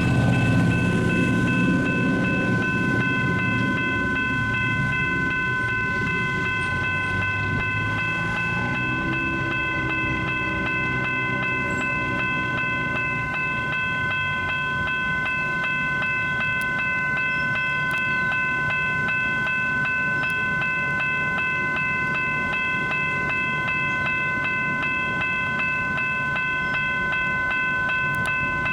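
Railroad crossing warning bell ringing steadily as a light rail train rumbles past, the train noise fading over the first few seconds.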